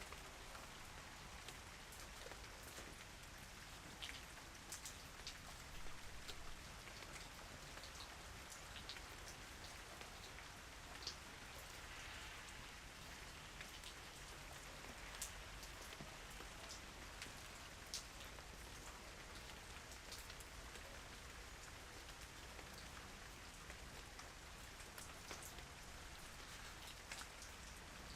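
Steady light rain, with individual drops ticking sharply on a surface here and there over an even hiss.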